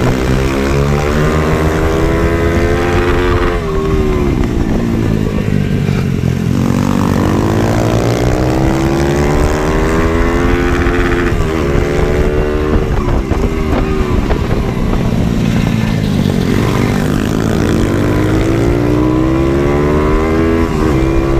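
Supermoto pit bike's small single-cylinder engine revving, its pitch climbing and then dropping back several times as it accelerates and eases off.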